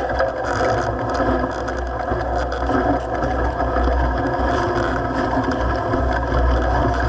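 Mountain bike descending a rough dirt trail: a steady clattering rattle from the bike and tyres over the ground, with a low rumble of wind on the microphone.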